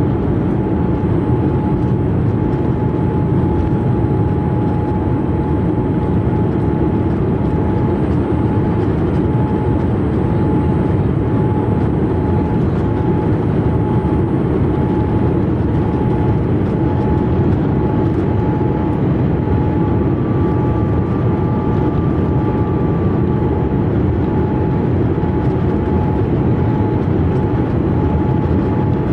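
Steady in-flight cabin noise of a Boeing 787-8 Dreamliner: a constant rush of engine and airflow noise with a thin, steady whine above it.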